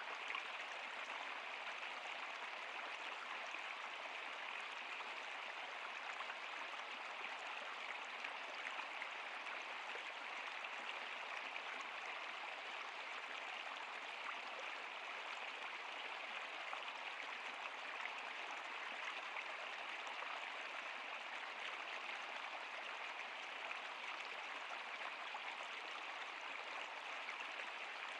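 Stream water running steadily, an even rushing and splashing with no breaks.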